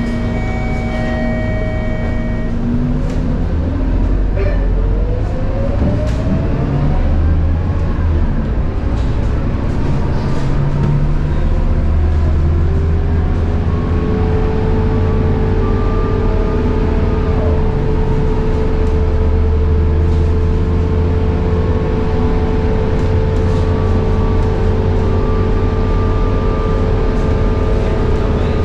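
Scania K230UB bus under way: the low drone of its 9.3-litre Scania DC9 engine with the whine of its ZF Ecomat six-speed automatic gearbox. The whine drops and glides upward a few seconds in, and from about halfway settles into a steady high whine.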